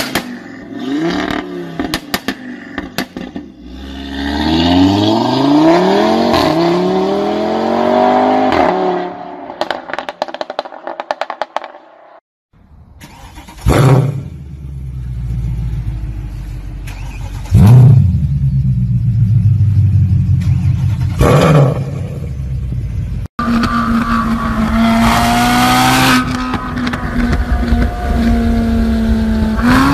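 Loud car exhausts from several different cars in turn. An engine revs up with its pitch climbing, then another idles with three sharp, loud bangs spaced a few seconds apart, and a third runs at a steady pitch.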